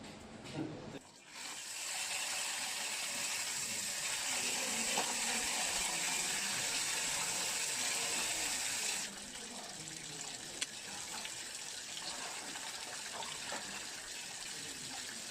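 Water running from a tap into a sink while wild greens are washed. The flow starts about a second in and drops suddenly to a softer running and splashing about nine seconds in.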